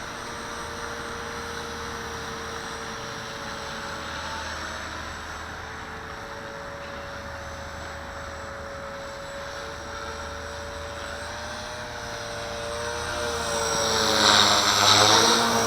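Walkera V450D01 radio-controlled helicopter in flight: a steady whine from its electric motor and spinning rotor, over low wind noise. Near the end the whine grows louder and its pitch wavers as the helicopter works against the gusts.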